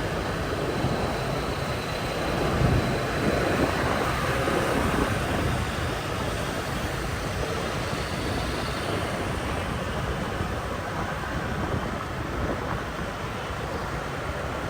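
Steady wind rushing over the microphone, mixed with the running of a motorbike and the traffic around it on a city ride.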